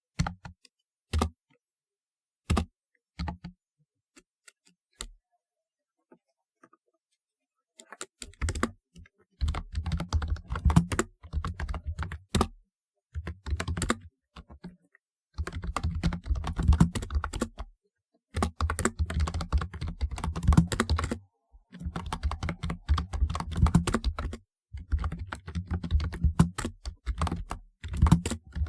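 Typing on a typewriter-style computer keyboard: a few single, separate keystrokes at first, then after a short pause fast continuous typing in runs of several seconds with brief breaks between them.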